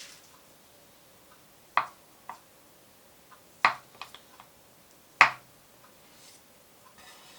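Kitchen preparation sounds: three sharp knocks about two seconds apart, the first two each followed by smaller clicks.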